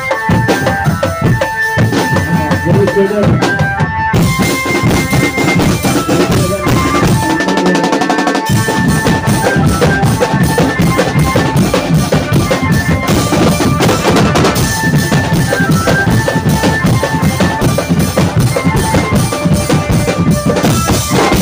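Drum band playing a fast, steady beat on snare and bass drums, with a melody line of held notes stepping up and down over the drumming.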